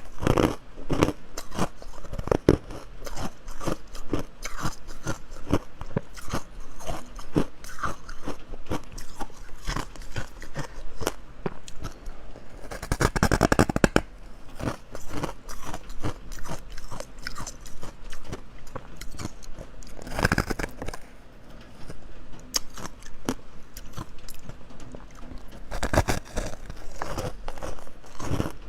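Ice being bitten and chewed close to the microphone: a continuous run of sharp, crisp crunches. The crunching comes in louder, denser bursts about halfway through, and again around two-thirds and nine-tenths of the way in.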